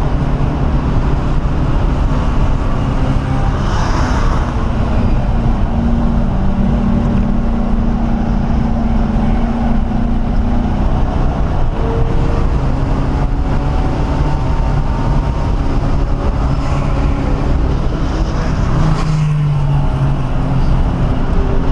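1997 Ford Mustang SVT Cobra's 4.6-litre DOHC V8 heard from inside the cabin while lapping a race track, the engine note stepping up and down in pitch several times as the car accelerates and lifts through corners, over steady road and wind noise.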